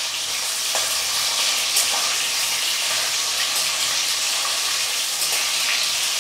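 Paneer cubes sizzling steadily as they shallow-fry in hot refined white oil in a metal kadai, with a metal spatula stirring and turning them, giving a few faint scrapes.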